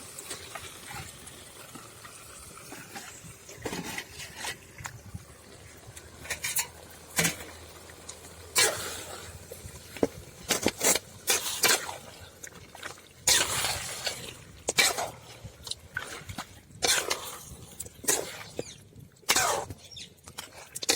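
Chicken pieces being added to a pan of sautéed onion and tomato and stirred: many irregular knocks and scrapes of a spoon against the pan.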